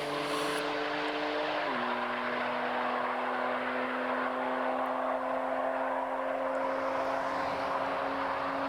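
High-speed car engine running on a motorway, a steady multi-tone engine note that drops in pitch once about two seconds in and then holds steady as the car pulls away.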